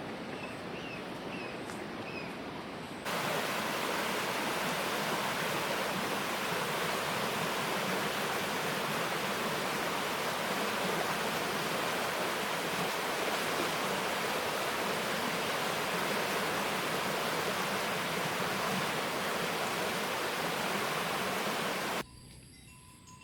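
Loud, steady rush of water that starts abruptly about three seconds in and cuts off abruptly near the end. A few faint bird chirps come before it over a quieter background.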